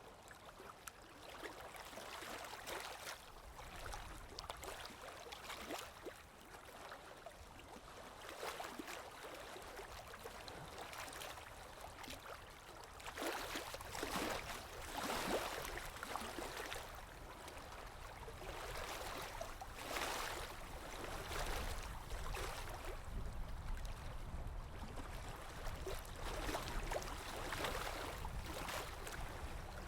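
Flowing water: a steady rush that swells louder several times.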